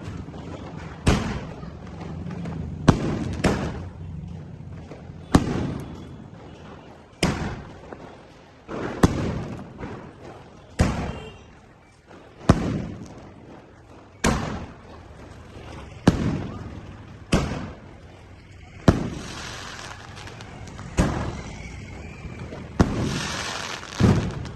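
Blue Star Fireworks 'power pack' firework going off in a long series of sharp bangs, one every second and a half to two seconds, each trailing off in echo, with two longer hissing bursts near the end.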